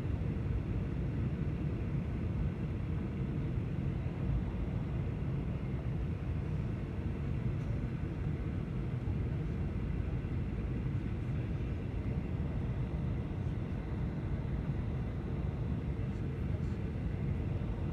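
Steady drone of an airliner's engines and airflow heard inside the cabin, deep and even, with a faint steady hum above it.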